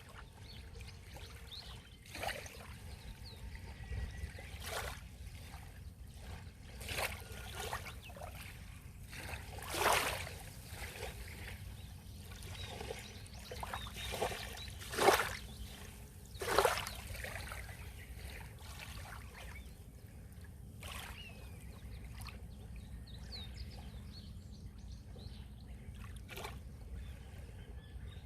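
Sea waves lapping and splashing at the shoreline in irregular short splashes every couple of seconds, the strongest few in the middle, over a steady low rumble.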